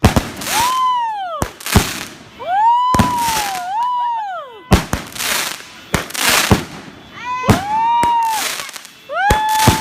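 Consumer fireworks going off: repeated sharp bangs and loud crackling, with several whistles that rise and then fall, the last one near the end held steady.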